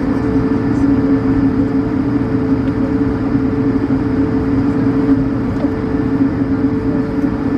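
Steady cabin noise inside an Airbus A220-100 airliner: its Pratt & Whitney PW1500G geared turbofans running with a constant drone and two steady tones over airflow rumble and hiss.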